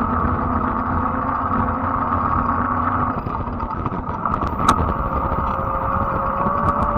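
Fat-tire electric bike riding along, its motor giving a steady whine over the hum of the wide tyres on the road, with a single sharp click a little after the middle.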